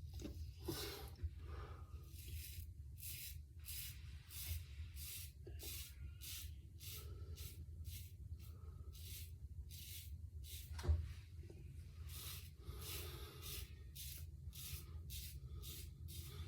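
Synthetic shaving brush working shave soap into lather, with steady, rhythmic wet swishing strokes about one and a half a second. A single knock comes about eleven seconds in.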